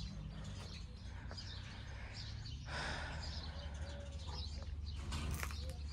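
Quiet garden ambience: small birds chirping faintly here and there over a low, steady rumble.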